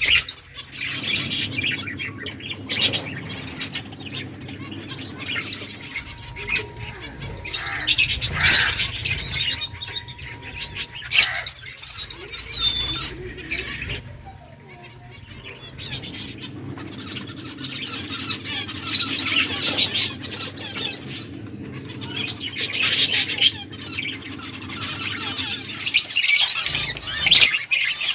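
Finches chirping in scattered bursts of high notes, with quieter gaps between, over a steady low hum.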